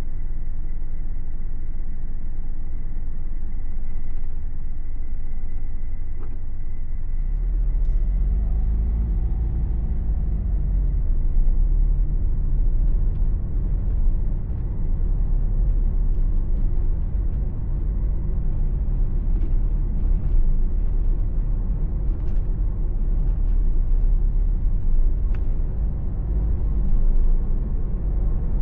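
Car engine and tyre rumble heard from inside the cabin while driving. About seven seconds in the rumble grows louder and the engine note rises for a few seconds as the car picks up speed.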